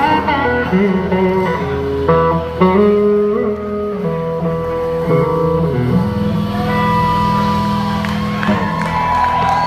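A live band playing a slow song's instrumental intro: an electric guitar holds long notes, some sliding in pitch, over a steady low accompaniment.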